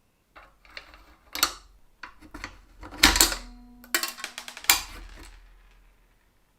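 Metal parts clattering and knocking, a dozen or so sharp hits, loudest about three seconds in and just before five seconds; the hit at about three seconds leaves a short ringing tone.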